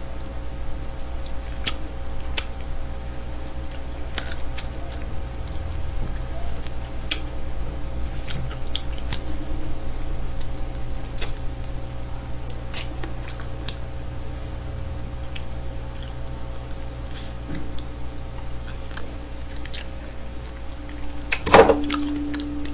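Close-miked eating of smoked chicken by hand: scattered sharp mouth clicks of chewing and lip-smacking over a steady low hum, with a short louder sound near the end.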